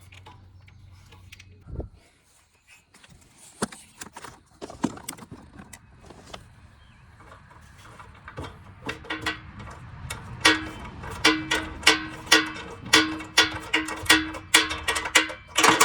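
Metal clicking and clinking of bolts and hand tools on a car's bumper reinforcement bar as the bolts are started by hand: a few scattered clicks at first, then a quick, ringing run of small metallic strikes through the second half.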